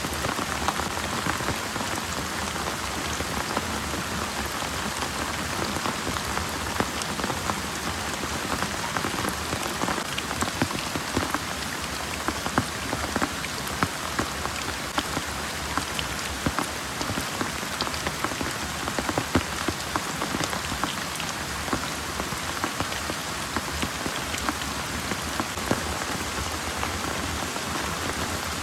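Heavy rain pouring steadily, with many separate drops ticking sharply on a nearby surface.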